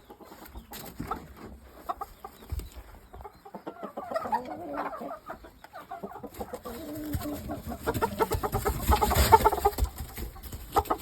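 Game chickens (Shamo) clucking in short, scattered calls, with a louder stretch of rustling and knocking about eight to ten seconds in.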